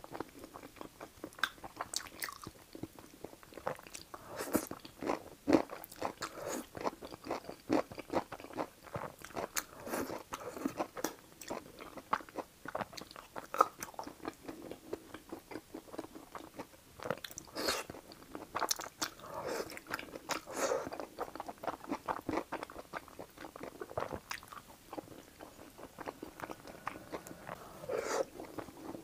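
Close-miked chewing of saucy fried rice noodles: a steady run of quick wet mouth clicks and chews.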